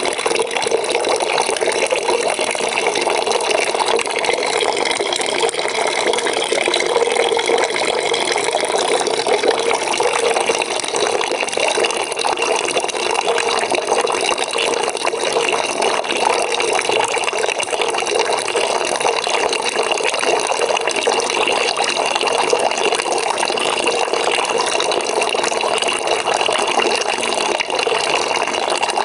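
Water pouring steadily into a bucket, a continuous splashing fill with a faint steady tone in it.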